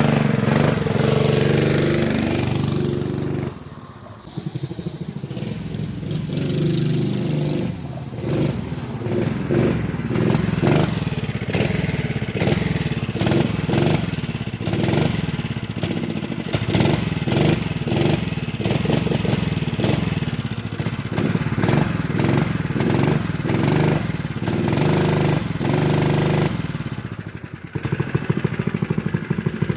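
Honda GX120 single-cylinder four-stroke engine on a minibike, revved up and let back down over and over in quick rising sweeps. It drops back to a low idle briefly about four seconds in and again near the end.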